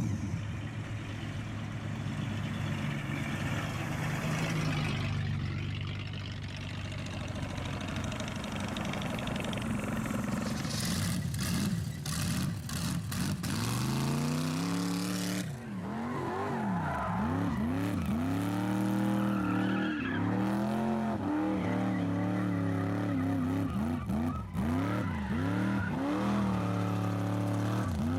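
A rat rod's engine being revved hard again and again, its pitch rising and falling, with tyres screeching as in a burnout.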